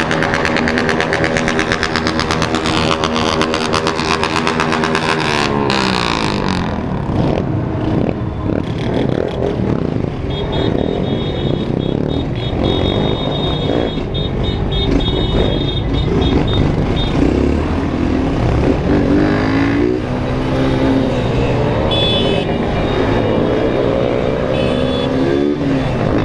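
Motorcycle engines in a large riding group: a single-cylinder Honda 160 engine held at steady revs, dropping off about six seconds in, then the mixed running of many motorcycles, with revs rising again twice in the later part.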